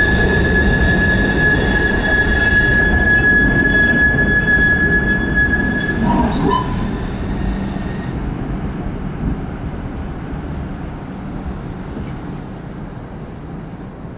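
Echizen Railway train running past with a steady high-pitched wheel squeal. The squeal stops about six seconds in, and the rumble of the train then fades away as it recedes.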